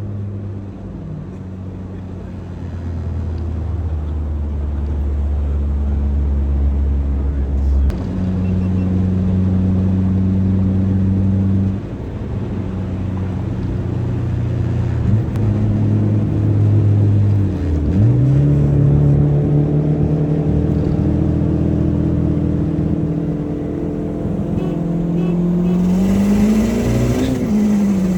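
Car engine running at changing speeds, its pitch stepping up and down every few seconds, with a quick rev that rises and falls near the end.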